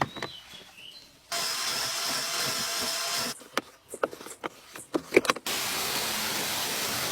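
Water spray hissing steadily in an automatic car wash. It comes in two stretches that start and stop abruptly, with clicks and knocks between them.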